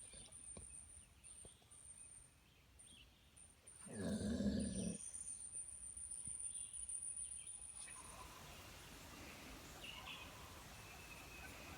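A dog gives one short, low growl or grunt about four seconds in. Under it lies faint outdoor background: a steady high-pitched whine that stops about two-thirds of the way through, and scattered faint chirps.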